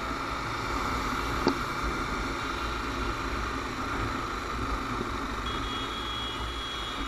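Honda CBR 250R single-cylinder engine running steadily while riding, mixed with road and wind noise. A short click comes about a second and a half in, and a thin steady high whistle starts near the end.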